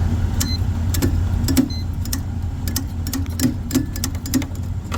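Rooftop gas heating unit's draft inducer motor powered up: a steady low hum with a regular ticking, about three ticks a second, the sign of a bad inducer motor that is not spinning freely.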